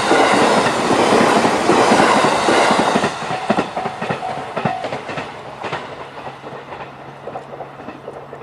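JR East E531-series electric train running over a level crossing: loud wheel and running noise for about three seconds, then fading away with spaced rail-joint clicks as it recedes.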